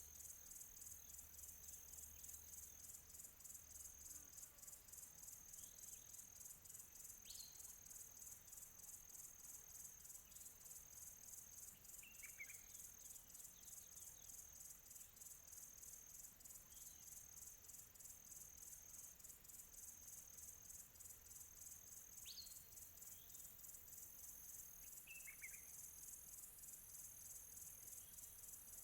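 Crickets chirping steadily in a faint, high, rapidly pulsing chorus, with a handful of short distant bird calls.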